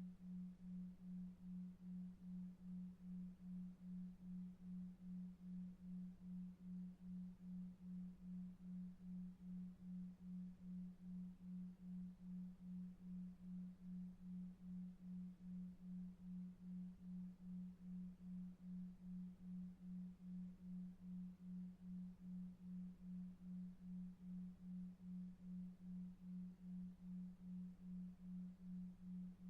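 A low, pure electronic tone pulsing evenly about two and a half times a second: a 2.5 Hz 'delta wave' pulsed tone for sleep, over a faint bed of brown noise.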